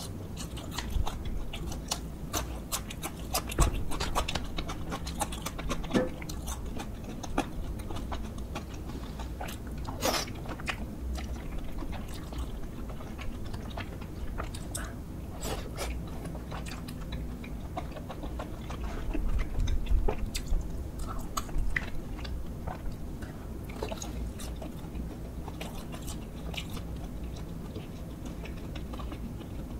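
A person chewing and biting food close to the microphone, with irregular crunches and sharp clicks throughout and one louder crunch about ten seconds in.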